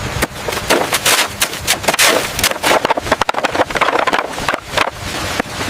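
Renovation and demolition work: a rapid, irregular run of sharp knocks and bangs, like hammering and things being struck and knocked down.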